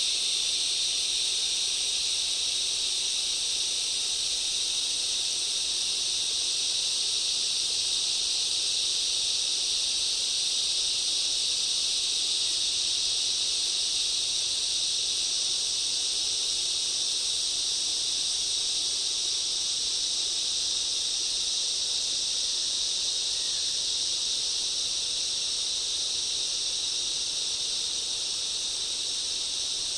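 Steady, high-pitched chorus of forest insects, a dense unbroken drone.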